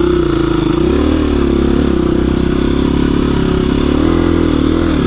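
KTM 350 EXC-F dirt bike's single-cylinder four-stroke engine running steadily under throttle on a rocky trail climb, its note dipping and picking back up slightly a couple of times.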